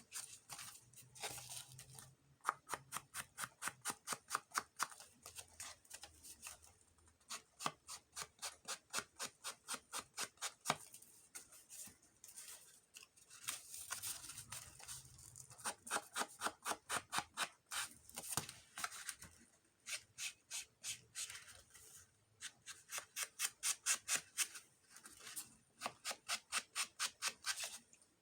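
Rapid scrubbing strokes of an ink tool against paper edges, about five a second, in runs with short pauses between them, as the bright white edges of a handmade paper booklet are inked to age them.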